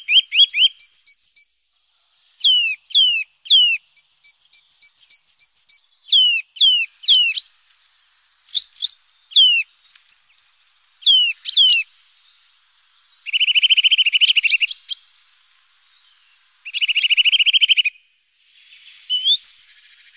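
Small songbirds calling and singing close by: quick runs of high notes and a series of falling whistled notes, then two fast rattling trills, about two thirds of the way in and near the end.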